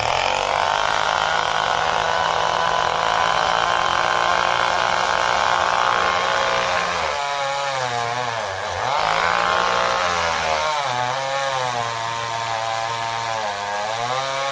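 Small chainsaw running at high revs, cutting into a tree trunk. About halfway through, its pitch sags sharply, then picks up again and keeps wavering as the chain takes load in the cut.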